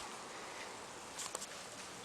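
Quiet background hiss with a few faint light clicks a little past a second in.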